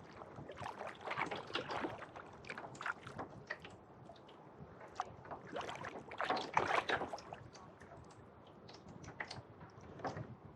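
Kayak paddle blades dipping into and pulling through lake water, with splashes and drips. Stronger strokes come about a second in and again about six to seven seconds in, with small drips and ticks between.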